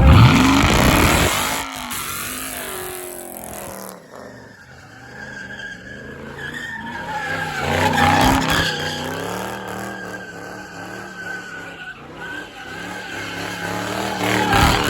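Car tires squealing while the engine revs, as at a burnout or donut. The sound is loudest at the start with a rising rev, then comes as a wavering squeal that swells again midway and near the end.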